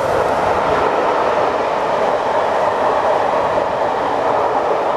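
Passenger coaches of the steam train hauled by 60163 Tornado running at speed close beneath: a loud, steady rush of wheels on the rails.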